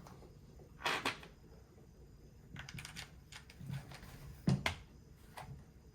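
Scattered light clicks and knocks of the hammer drill's plastic housing and parts being handled during reassembly: two clicks about a second in, faint ticking around three seconds, and a sharper knock about four and a half seconds in.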